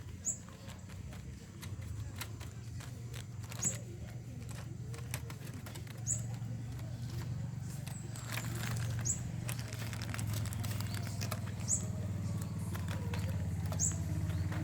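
A bird calls a short, very high note about every two and a half seconds, over a steady low hum and scattered light clicks.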